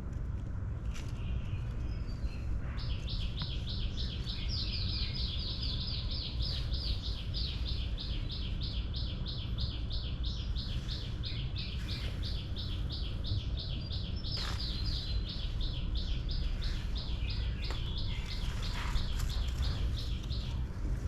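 A bird singing one long, even series of rapidly repeated high notes that starts about three seconds in and stops near the end, over a steady low outdoor rumble with a few scattered rustles or clicks.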